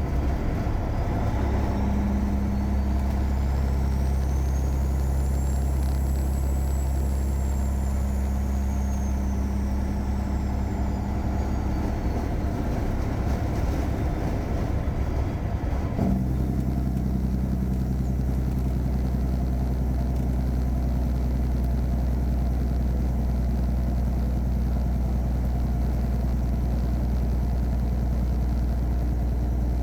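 Caterpillar 3406E inline-six diesel in a Freightliner Classic truck running steadily under way, with a deep, even drone. A faint high whine rises and then falls over the first dozen seconds. About halfway through, a brief click comes and the engine note settles at a slightly different pitch.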